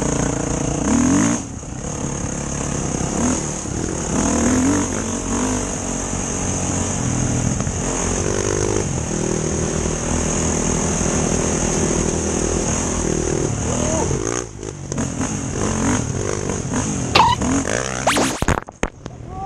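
Enduro motorcycle engine running and revving, its pitch shifting up and down, over a steady high hiss. Near the end the sound briefly drops out.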